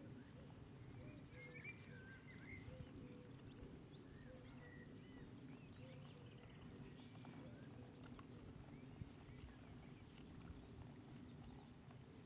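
Faint birdsong, scattered short chirps and whistles, over a steady low rumble of outdoor background noise.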